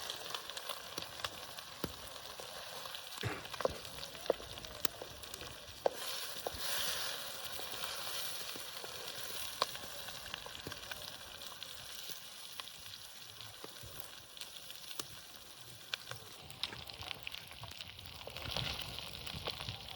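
Eggs frying in rendered lamb tail fat: a steady sizzle with scattered sharp pops of spitting fat.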